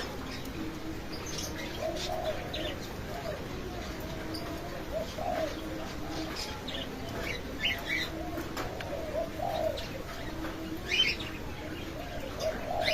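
Aviary birds calling: low, repeated cooing throughout, with short high chirps from smaller birds scattered over it.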